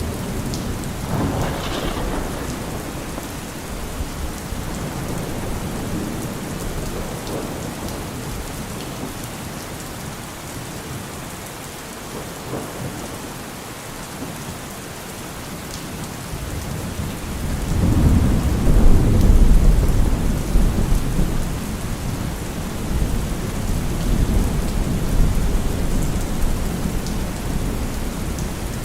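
Steady heavy rain falling, with thunder rumbling low underneath; a long, louder roll of thunder builds about two-thirds of the way through and slowly dies away.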